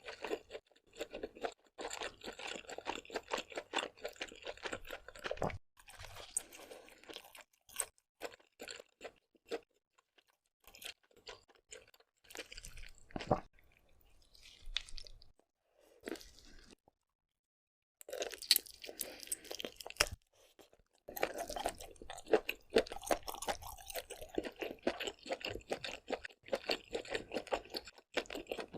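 Close-miked chewing and crunching of seafood, a dense crackle of small clicks in bursts with short pauses between mouthfuls. It goes completely silent for about a second past the middle.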